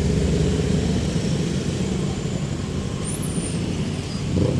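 Street traffic: a vehicle engine running close by, a steady low drone.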